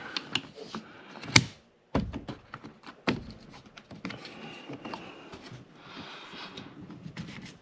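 Plastic wiper-arm cover on a BMW E39 M5 being pressed onto the wiper arm and snapping into place, with one sharp click about a second and a half in. A duller knock and another click follow, then light handling of the plastic.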